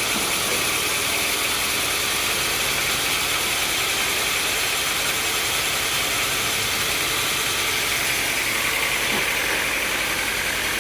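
Sawmill machinery running steadily, with a constant high-pitched hiss.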